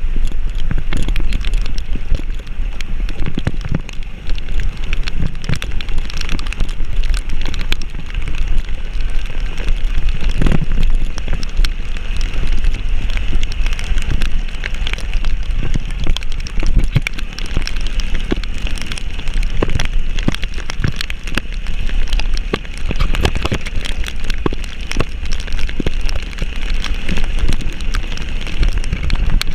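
Heavy rain pattering close to the microphone, a dense spatter of drops with many sharp ticks, over a steady low rumble.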